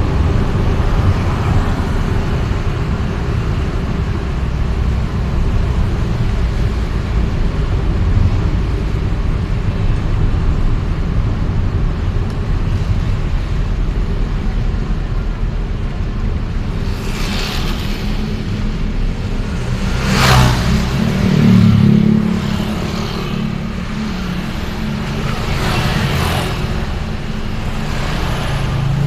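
Road traffic heard from a moving vehicle: a steady low rumble of engine and road noise. In the second half, three other vehicles swish past, the loudest about two-thirds through.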